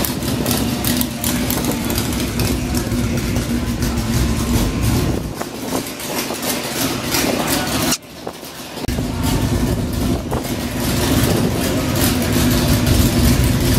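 Car engine running steadily at idle, with a constant low hum, cutting out for about a second partway through before resuming.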